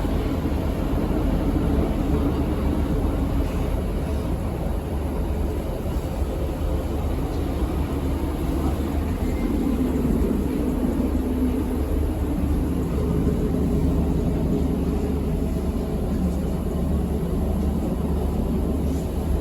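Passenger train running: a steady low rumble of wheels and motors.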